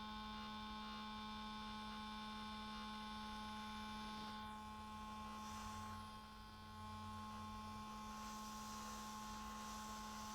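Steady electrical mains hum with a few fixed higher tones above it, and faint hiss in the second half.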